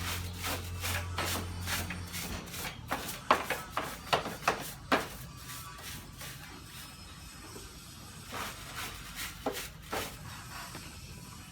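Hand scrubbing or wiping during a motorcycle wash: a run of short, irregular rubbing strokes and light knocks, busiest in the first five seconds and sparser after. A low steady hum stops about two seconds in.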